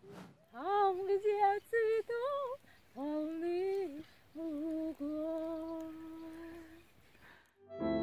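A woman's voice humming a slow, wordless melody in several phrases, with long held notes and a light vibrato, breaking off near the end.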